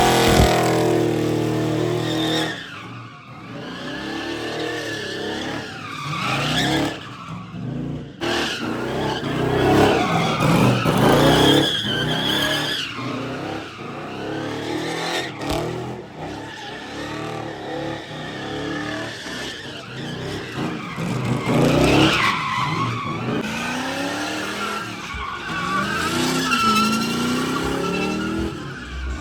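A car's engine revving hard, its pitch rising and falling again and again, while its rear tires squeal and skid in a burnout.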